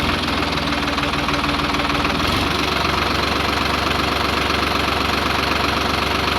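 Vehicle engine idling with a steady, even rhythm; the sound shifts in tone about two and a half seconds in.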